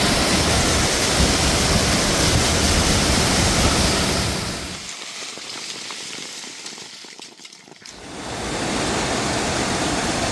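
Steady rushing of a waterfall. About five seconds in it drops away to a much quieter stretch with a few faint clicks, then comes back just as loud about three seconds later.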